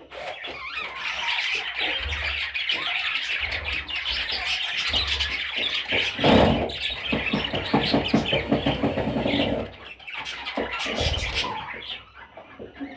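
Pet budgerigars chattering and warbling continuously, with a loud thump about six seconds in and a few more knocks later.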